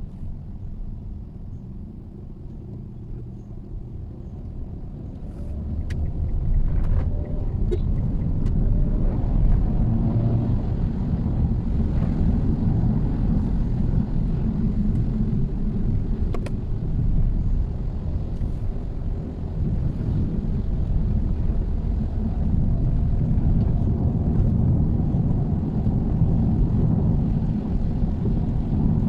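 Mitsubishi Xpander's road and engine noise heard from inside the moving car: a steady low rumble that grows louder about six seconds in as the car picks up pace, with a few faint ticks.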